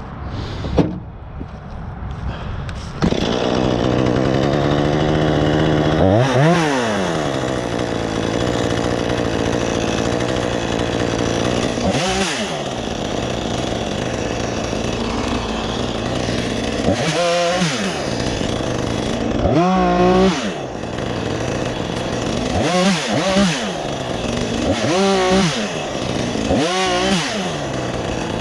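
Gas chainsaw bucking a large, heavy tree trunk: quieter for the first three seconds, then running at high revs. About seven times the engine note drops and climbs back as the throttle eases and opens again.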